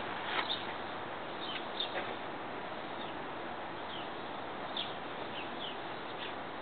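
Birds chirping in the background: scattered short, high chirps over a steady hiss.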